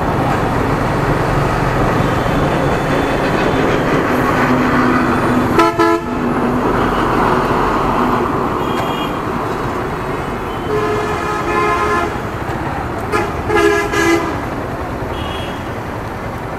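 Vehicle horns honking in road traffic: a short blast about six seconds in, a longer honk around eleven seconds, and two more near fourteen seconds, over the steady noise of a motorcycle ride with engine and wind.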